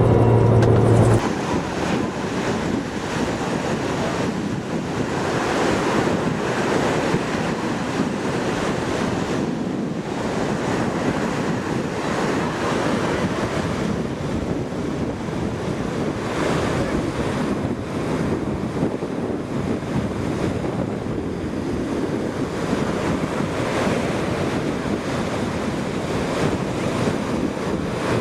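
Steady rushing wind noise on the microphone. A loud low hum cuts off abruptly about a second in.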